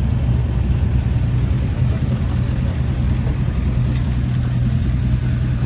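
A car engine running steadily at idle: a low, even rumble.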